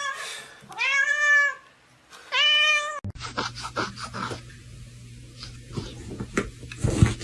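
A domestic cat meowing twice, one call about a second in and a shorter one about two and a half seconds in, each rising and then falling in pitch. Then a steady low hum with scattered clicks, and a thump near the end.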